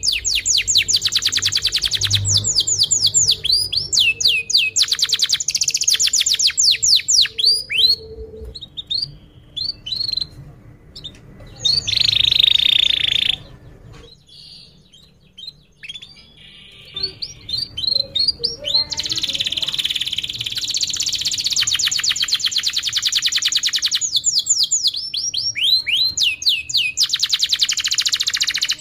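Domestic canary singing long, fast trills of repeated high notes, with a quieter stretch about halfway through before the song picks up again.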